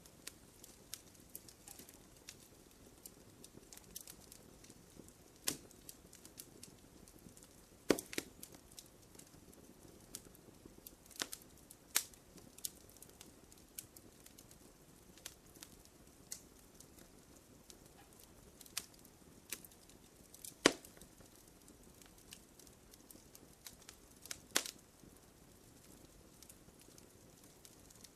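Wood campfire crackling: irregular sharp pops and snaps over a soft steady hiss of burning, with a few louder pops about a third of the way in, near the middle and toward the end.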